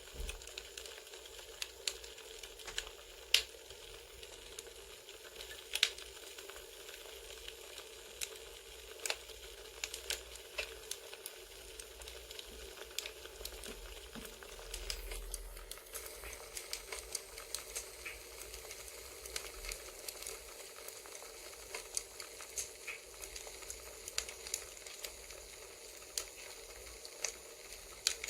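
Crackling campfire: irregular sharp pops and snaps over a steady soft hiss.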